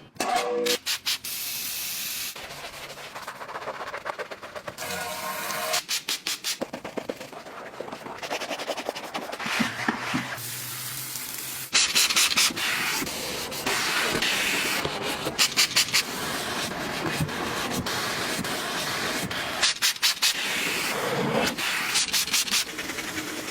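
Car detailing scrubbing sounds: brushes or pads rubbing in quick, even strokes, alternating with the steady hiss of spraying, changing abruptly every few seconds.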